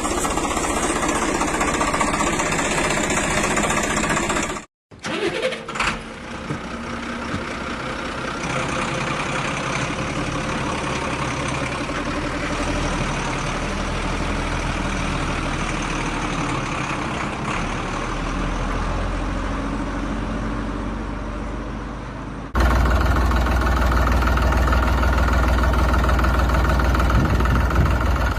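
Motor vehicle engines running, heard across several edited clips: a steady running engine, a brief silence about five seconds in, then a louder, deeper engine sound that cuts in suddenly near the end.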